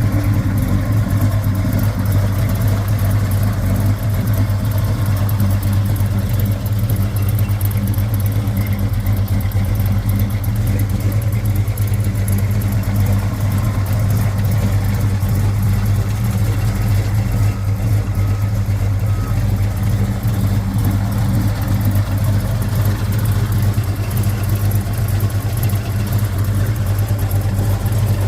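Ford 429 Super Cobra Jet V8 running steadily at an even, unchanging engine speed.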